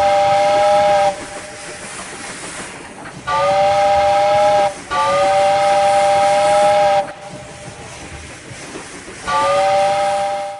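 A whistle sounding four blasts of a steady multi-note chord, each starting with a slight upward swoop, with a hiss between the blasts.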